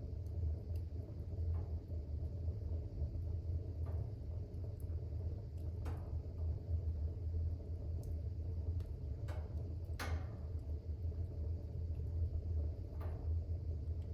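Wood fire burning in a fireplace: a steady low rumble of the flames with scattered crackles and pops, the loudest about ten seconds in.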